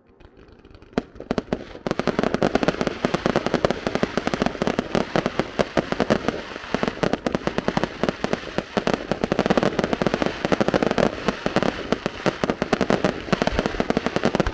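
Fireworks crackling: a few scattered pops, then from about two seconds in a dense, continuous run of rapid sharp cracks.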